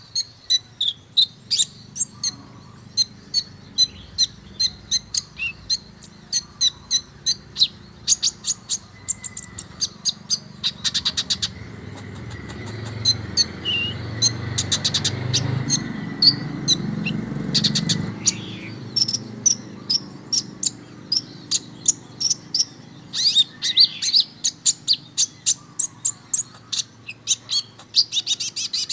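Kolibri ninja sunbird singing a fast string of sharp, high chirps with quick trills about a third of the way in and again near the end. A low rumble swells up under the song in the middle and fades.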